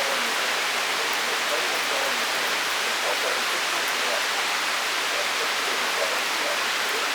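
Torrential thunderstorm rain pouring down, a steady dense hiss with no let-up.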